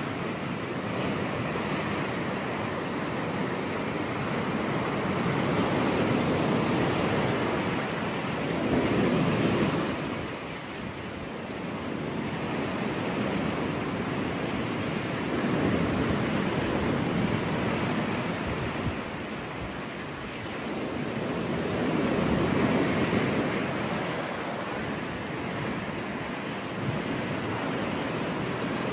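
Ocean surf breaking on a beach: a continuous wash of waves that swells and eases every several seconds.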